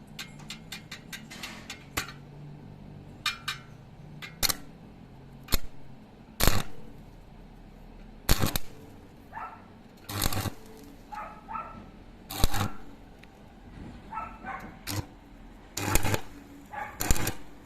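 Irregular sharp clicks and knocks, a dozen or more spread unevenly, with a few short squeaks between them.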